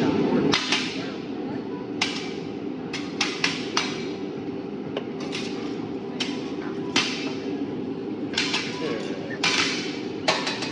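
Metal utensils clanking in an irregular series of sharp strikes, each ringing briefly, over steady restaurant background noise.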